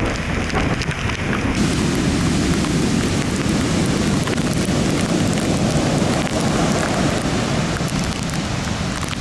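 Hurricane-force wind and driving rain, a dense steady rushing with heavy low buffeting of the microphone. The hiss grows fuller about a second and a half in.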